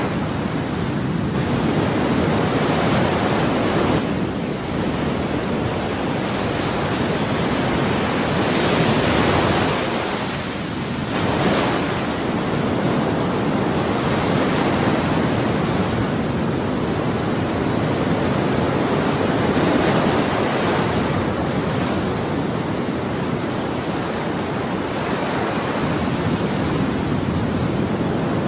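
Ocean waves washing onto a shore in a steady hiss of surf, with breakers swelling and fading every few seconds.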